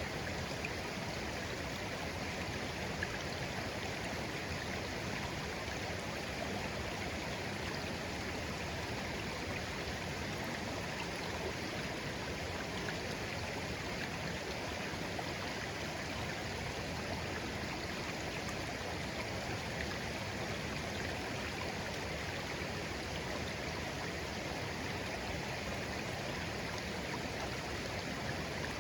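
Shallow stream flowing gently over stones, a steady babbling and trickling of water.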